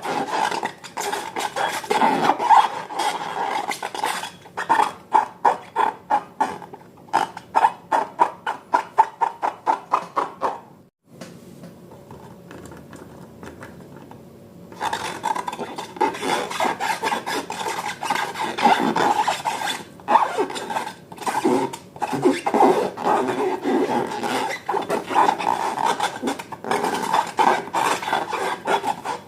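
Slime being mixed and squished, a steady run of wet rubbing and scraping strokes. In the middle they fall into a regular rhythm of about two a second, then go quieter for a few seconds before picking up again.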